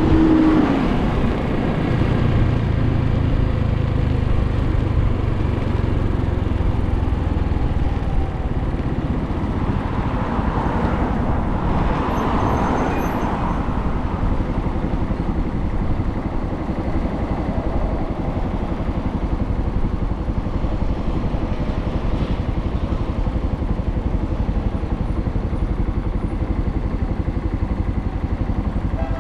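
Suzuki TU250X single-cylinder engine running under way, with steady road and wind noise from the wet ride. The low engine note is strongest for the first several seconds and then eases off. Another swell of noise rises and falls around the middle.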